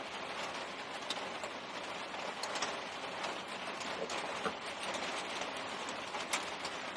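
Steady hiss like light rain, with a few faint clicks and taps from the straight razor and its handle being handled.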